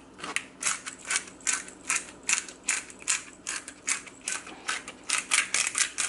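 Hand-twisted pepper grinder cranking over and over, a run of short ratcheting grinds that quickens near the end.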